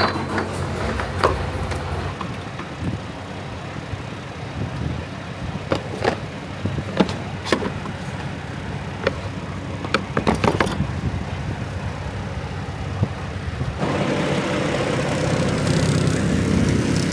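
Semi-truck diesel engine idling just after being started, with scattered clicks and knocks over it. The engine gets louder about fourteen seconds in.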